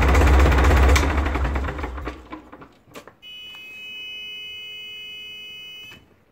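Ford 2722E marine diesel engine running, then shut down about a second in and spinning down to a stop. About a second later a steady electronic buzzer tone sounds for roughly three seconds and cuts off.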